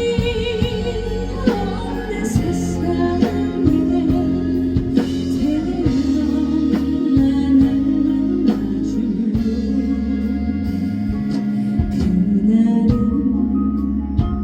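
A live trot song: a female singer holding long, wavering notes over a backing band with a steady beat.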